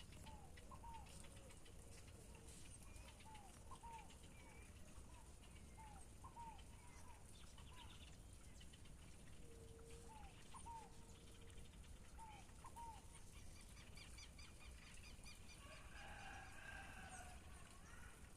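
Faint birdsong: short chirps in pairs repeat throughout, with a few held low whistled notes. A busier burst of calling comes near the end, over a faint low rumble.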